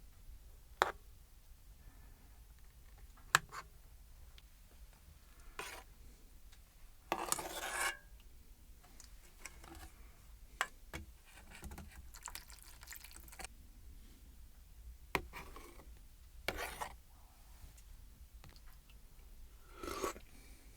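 Quiet handling sounds in a small room: a few sharp single clicks or knocks scattered through, and a rubbing scrape lasting about a second around the middle, with a shorter one near the end.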